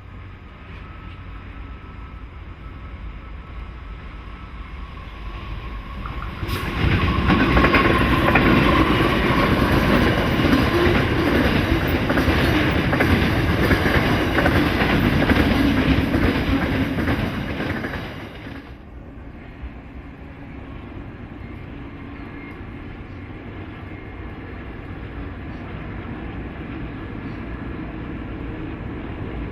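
Diesel-hauled freight train passing, its rumble building and then much louder for about twelve seconds as the locomotives and wagons go by, with some wheel clatter on the rails. It drops back suddenly to a lower steady rumble of the train for the rest of the time.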